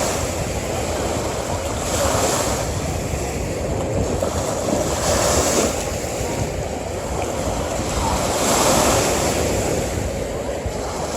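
Ocean surf washing onto a beach, a steady wash of water that swells with each wave about every three seconds.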